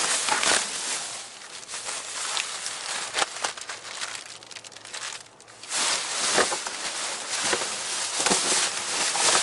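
Trash being rummaged through: plastic bags and packaging crinkling and rustling, with scattered clicks and knocks as items are handled, easing off about five seconds in, then picking up again.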